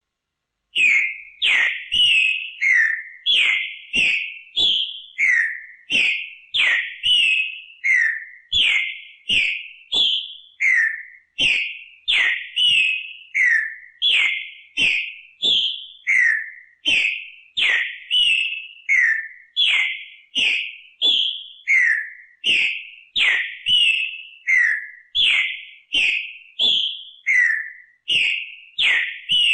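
Green-winged saltator (trinca-ferro) singing its song phrase over and over: loud, clear whistled notes, each dropping in pitch, repeated in a steady unbroken run from about a second in.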